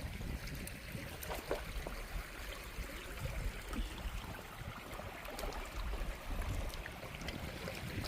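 Shallow river water rippling and trickling around a bamboo raft as it drifts downstream, over an uneven low rumble.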